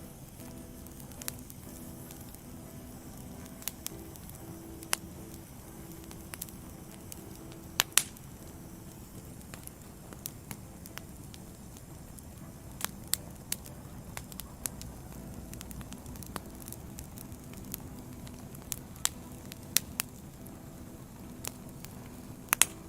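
Wood fire burning, with a steady hiss and irregular sharp pops and cracks from the burning logs. The loudest crack comes about eight seconds in, and there is a quick cluster of cracks near the end.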